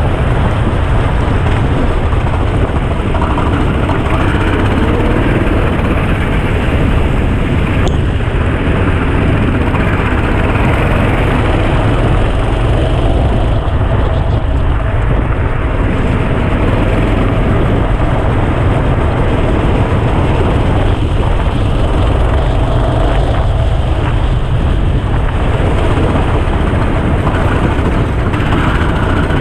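Go-kart engine running continuously as the kart is driven, loud and close, with a faint wavering engine note over a heavy low rumble.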